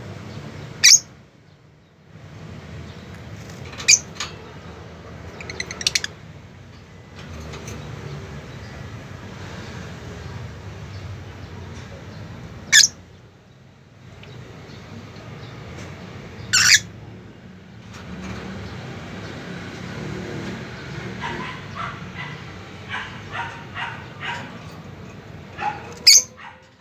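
Pet birds calling: a handful of short, loud, shrill calls a few seconds apart, then a quicker run of short calls near the end, over a steady low background noise.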